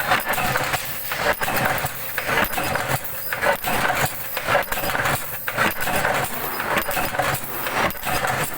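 Power press running a progressive sheet-metal die, stamping ceiling fan shackles with a sharp metallic strike about once a second over steady machine clatter.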